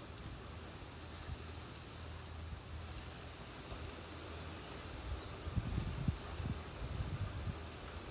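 A bird repeating a short, high, falling chirp about every two seconds over a steady low hum, with a run of low thumps in the second half.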